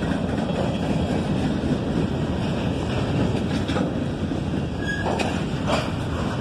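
Freight train cars (bulkhead flatcars and covered hoppers) rolling past: a steady rumble of steel wheels on rail, with a couple of short sharp clicks near the end.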